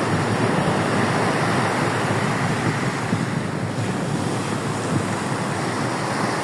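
Sea surf breaking and washing onto a beach, a steady continuous rush with wind.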